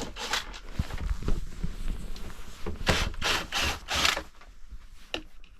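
Wood scraping and rubbing in a series of short strokes, with several close together a little past halfway.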